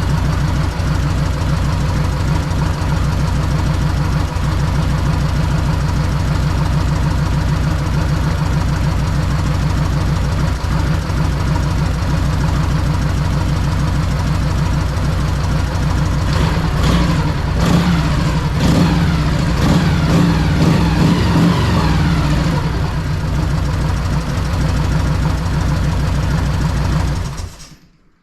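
Freshly rebuilt Harley-Davidson Evolution air-cooled V-twin idling with a steady, lumpy pulse; the revs pick up and it gets louder for a few seconds about two-thirds of the way through, then the engine is shut off and stops near the end.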